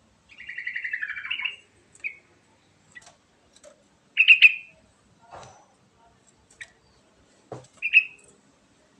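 Yellow-vented bulbul singing in short bubbly phrases. A rapid chattering run of about a second and a half comes at the start, then brief loud phrases about four and eight seconds in.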